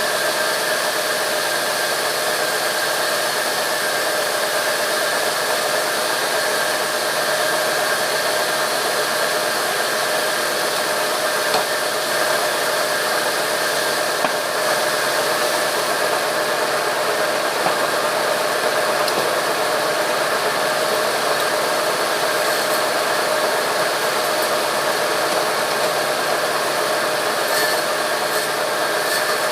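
Sawmill machinery running steadily: a constant mechanical hiss with a steady whine, unchanging throughout.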